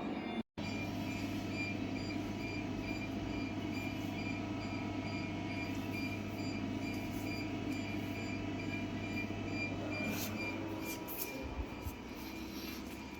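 CNC lathe running: a steady machine hum with several held tones. A low hum drops out about eleven seconds in, with a few clicks around it.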